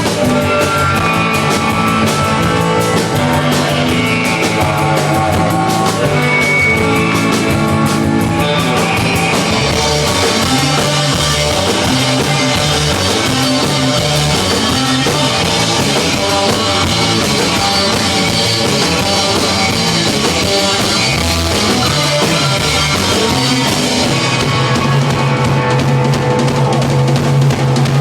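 Rock music with drum kit, bass and electric guitar played loud, busier and fuller from about nine seconds in.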